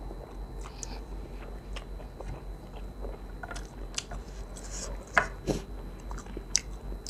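Close-miked chewing of soft rice noodles in curry, with scattered small mouth clicks and a few sharper crunches, the loudest about five seconds in.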